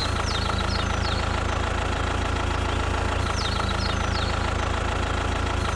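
An engine idling steadily with a fast, even chugging, as of a small tractor. A few faint, high, short falling chirps come twice, near the start and in the middle.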